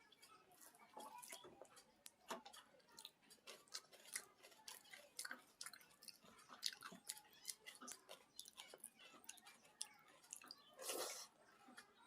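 Close-miked chewing of a meal of pakhala (watered rice) with fried sides: irregular wet mouth clicks and smacks, with a longer, louder sound near the end.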